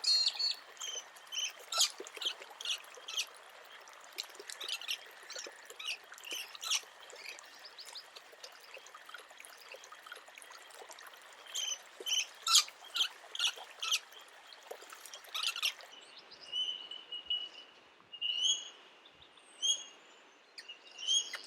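Scaly-breasted lorikeets calling: many short, sharp, high-pitched screeches in quick succession. About two-thirds of the way through, the sound changes abruptly to a quieter series of short, high, upward-flicking bird calls.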